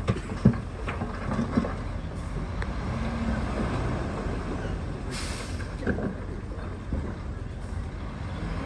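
Heavy diesel construction machinery running, with several sharp metallic clanks in the first two seconds and a short hiss of air about five seconds in.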